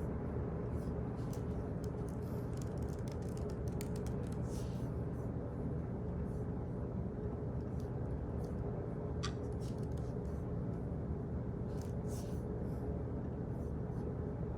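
Office background ambience: a steady low hum with scattered light clicks and taps.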